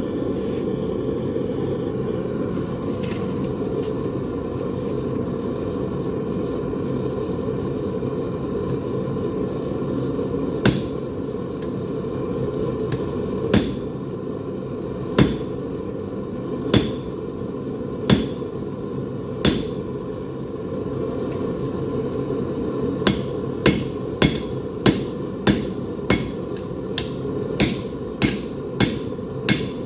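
Hammer blows on hot steel at an anvil, with sharp ringing strikes, first spaced about a second and a half apart and then quickening to about two a second, over the steady low rush of a running forge. For the first ten seconds only the forge's rush is heard.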